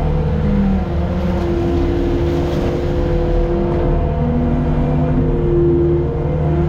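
Skid steer engine running steadily under work, with steady whining tones that shift a little in pitch.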